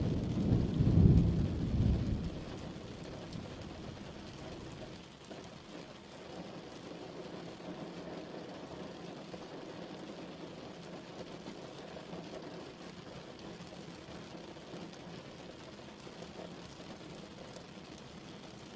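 Thunder rumbling low and loud over steady rain, dying away about two seconds in, after which the rain goes on alone, falling steadily.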